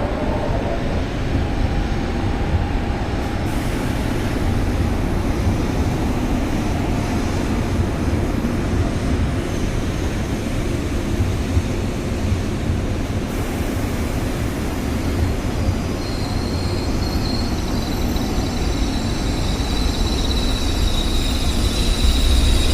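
Shinkansen bullet train moving through a station, a steady rumble of wheels on rail. A thin high whine comes in past the middle and grows louder toward the end.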